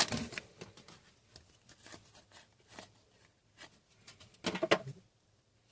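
Hockey card pack wrapper crinkling and cards being handled: faint scattered rustles and light clicks, with a louder crinkle near the end, then the sound stops.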